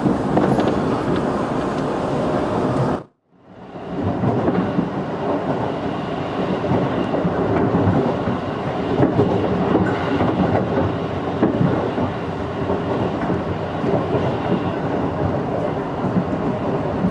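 Running noise of a JR 211-series electric multiple unit heard from inside the carriage: a steady rumble of wheels on rail and car body. The sound cuts out briefly about three seconds in, then fades back up.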